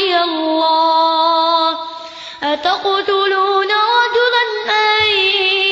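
A child's voice reciting the Quran in melodic, drawn-out tajweed style, holding long wavering notes. There is a short breath about two seconds in before the chant resumes.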